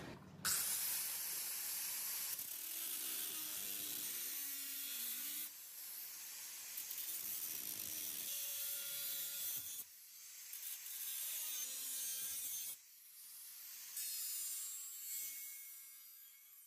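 Scraping and rubbing of a hand tool working on a surface, in several short segments that cut in and out abruptly.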